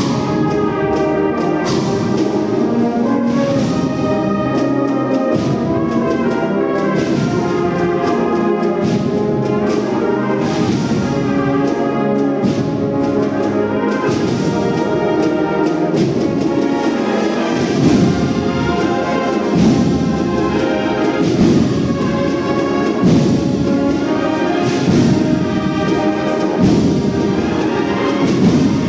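Brass band playing a Holy Week processional march, with trumpets and trombones over regular drum beats.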